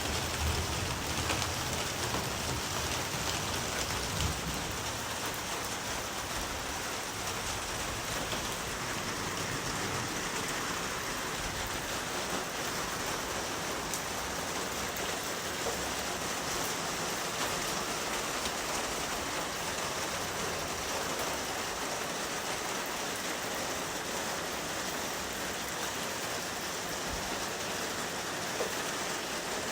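Steady rain falling, a dense, even hiss of drops, with a low rumble that dies away in the first few seconds.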